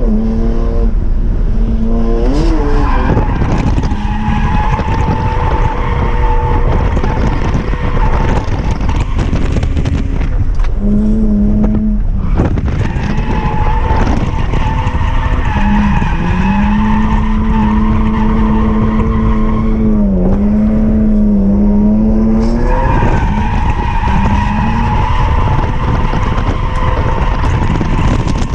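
BMW E46 M3's S54 straight-six held at high revs through a drift run, with tyres squealing and skidding as the car slides. The engine pitch stays mostly steady, dipping and coming back up several times.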